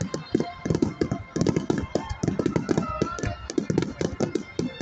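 Voices of a crowd talking, mixed with many quick, irregular sharp clicks and cracks.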